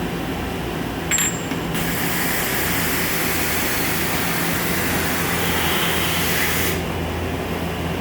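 CNC lathe and robot cell running with a steady hum, a short metallic click about a second in, then a steady hiss for about five seconds that cuts off suddenly.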